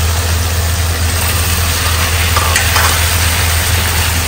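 Food frying in a pan, a steady sizzle as it is stirred, with a couple of light taps about halfway through and a steady low hum underneath.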